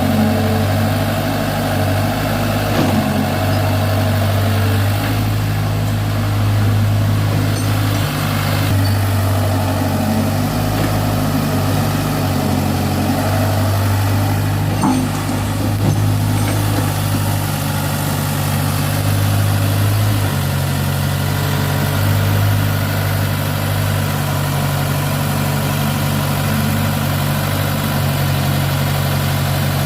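Sonalika DI-35 RX tractor's diesel engine running steadily, its low note shifting slightly now and then.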